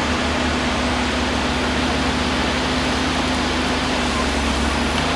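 A heavy machine's engine running steadily, with a constant hum over loud, even mechanical noise.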